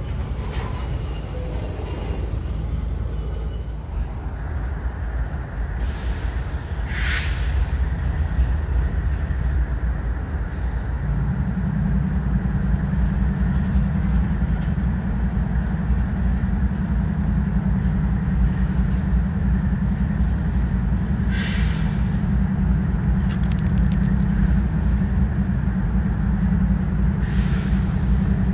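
Freight train's covered hopper cars rolling past with a steady low rumble, and thin high wheel squeals in the first few seconds. About eleven seconds in, a deeper steady hum joins the rumble.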